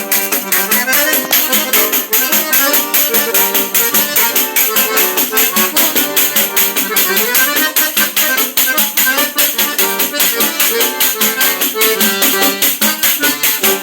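Accordion and pandeiro playing a lively tune together: the accordion holds chords and melody while the pandeiro's jingles keep a fast, even rhythm.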